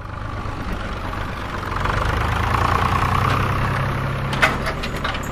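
An engine running steadily, with a couple of light clicks near the end.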